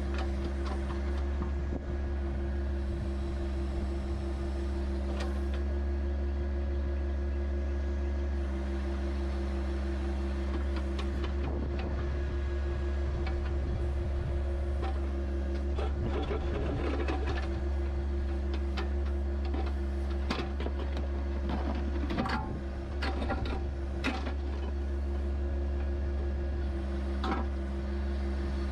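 A John Deere 1025R compact tractor's diesel engine running steadily. From the middle onward, scattered knocks and clanks sound over it.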